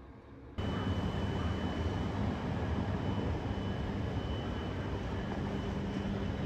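Steady engine drone with a constant thin high whine on top, starting abruptly about half a second in.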